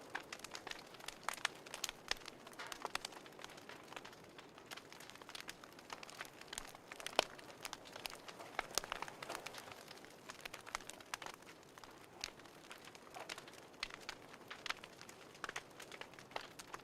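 Wood fire crackling: irregular sharp pops and snaps over a soft steady hiss, with the loudest pop about seven seconds in.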